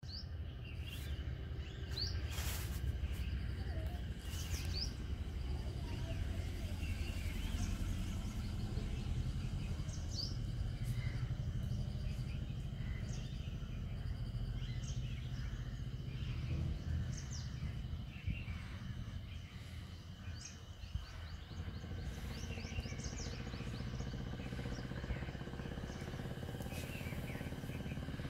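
Outdoor ambience: birds chirping in short, frequent calls over a steady low rumble.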